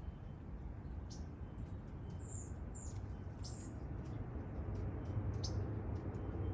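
A small bird chirping, about five short high calls spread unevenly over several seconds, over a steady low background rumble.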